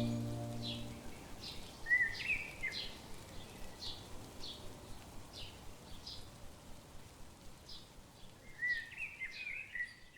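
Birds calling: a short high chirp repeated about twice a second, with a warbling phrase from another bird about two seconds in and again near the end. A music tail fades out in the first second.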